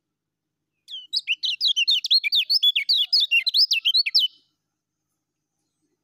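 A white-eye (kecial kuning) sings one rapid, unbroken run of high chirping notes, each a quick up-and-down slur. The run starts about a second in, lasts about three and a half seconds, and then stops.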